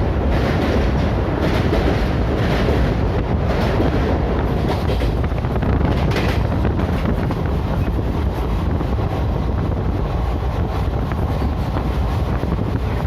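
Train running on the rails, with a faint, even knock about once a second in the first half, under heavy wind noise on the microphone.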